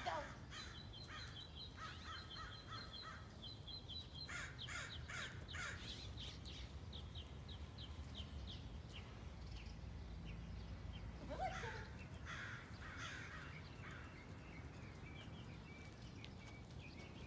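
Birds calling in runs of short, repeated calls: a group near the start, another about four to six seconds in, and another around twelve seconds. Underneath is a faint, steady low background rumble.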